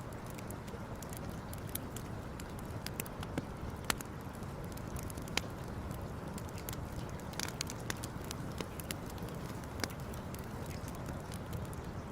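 Campfire burning, with irregular sharp crackles and pops of burning wood over a steady low rush.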